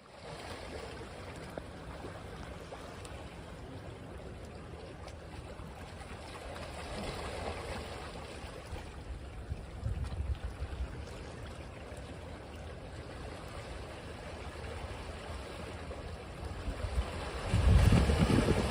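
Ocean surf washing on a beach: a steady wash of water that swells about seven and ten seconds in, with a louder surge and deep rumble near the end.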